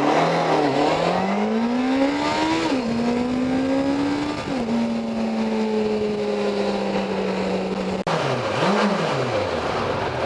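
2006 Suzuki GSX750F's inline-four engine running through its stock exhaust. The revs climb and drop sharply twice, hold steady for a few seconds, then after a brief break rise and fall in two quick blips.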